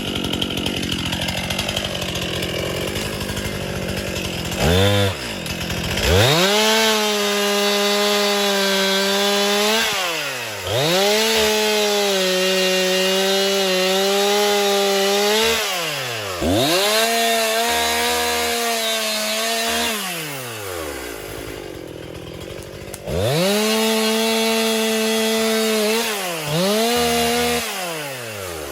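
Chainsaw cutting wood, revving to full speed in about five long runs of a few seconds each, its pitch dropping sharply between runs and running lower and rougher in the gaps.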